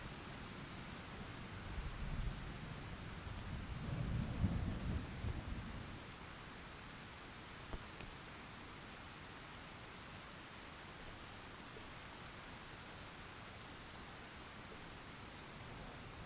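Steady rain falling, with a low rumble of thunder that swells from about two seconds in, is loudest around four to five seconds, and dies away by about six seconds, leaving only the rain.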